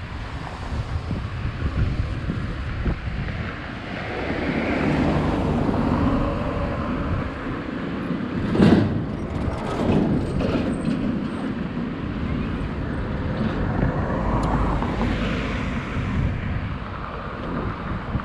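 Wind buffeting the microphone on a moving e-bike, over a steady wash of street traffic noise. A sharp knock stands out about nine seconds in.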